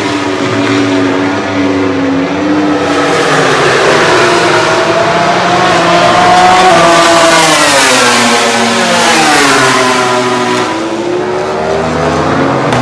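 MotoGP prototype racing motorcycles running at high revs on track. The engine pitch climbs as they accelerate, drops past the middle as they go by, and climbs again near the end.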